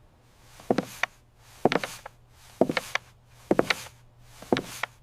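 Regular knocking, about one a second, each knock a quick double or triple tap, over a faint low hum.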